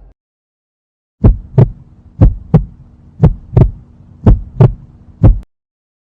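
Heartbeat sound effect: four double 'lub-dub' beats about a second apart, then one single thump, over a low steady hum. It cuts off abruptly.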